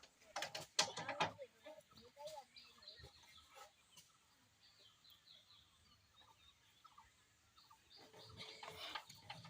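Faint bird chirps with a few sharp clicks in the first second or so; no engine running.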